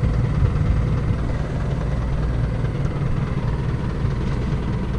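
Diesel engine of a farm machine running steadily under way, a low even drone heard from on board the machine.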